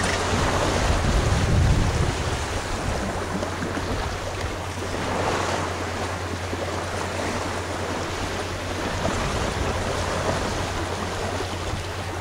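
Wind buffeting the microphone over water rushing along a sailboat's hull under way, a steady rush with a low rumble that swells about a second in.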